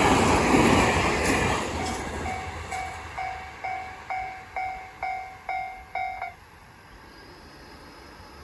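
A train passes, its rumble fading away over the first two seconds. Then a railway level-crossing bell rings about two strikes a second and stops about six seconds in.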